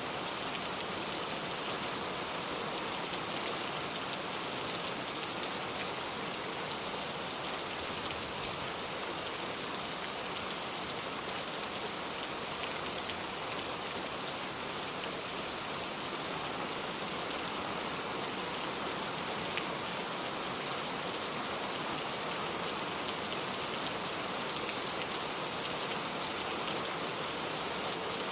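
Heavy rain pouring steadily, a dense even hiss with scattered individual drop ticks.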